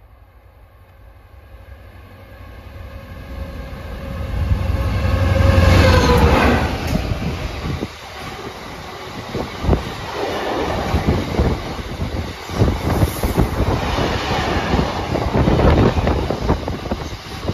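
Class 66 diesel freight locomotive approaching and passing at speed: its engine grows louder and drops in pitch as it goes by, about six seconds in. A long train of open box wagons follows, rumbling and clattering over the rail joints.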